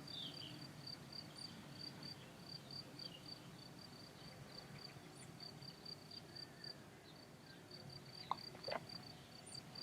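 A cricket chirping steadily: a faint, high, even pulse about three times a second over low background noise. A couple of short faint chirps come near the end.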